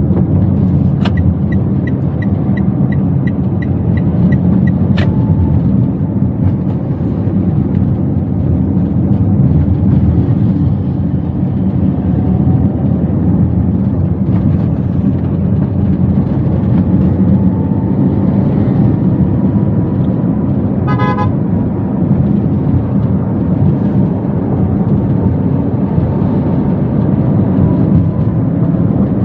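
Steady low rumble of engine and road noise inside a Toyota Wigo's cabin while driving. A run of about ten light, evenly spaced ticks comes a second or so in, and a short car-horn beep about two-thirds of the way through.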